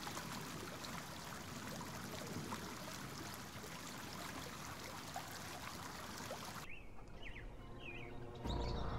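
Faint outdoor nature ambience in an animation soundtrack: a steady hiss like running water, with small ticks. A few short bird-like chirps come near the end, and a low rumble starts just before it ends.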